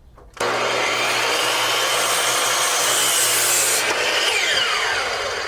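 Electric miter saw starting abruptly and cutting a 45-degree miter through a pine 2x4. After about three and a half seconds the blade is released and spins down with a falling whine.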